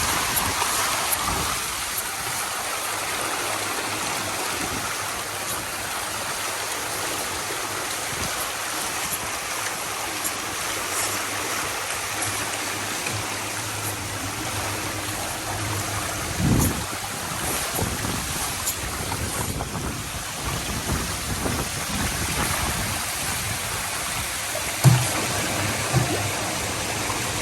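Steady rushing and splashing of water in an intensive fish-culture tank, with a few short low thumps about halfway and twice near the end.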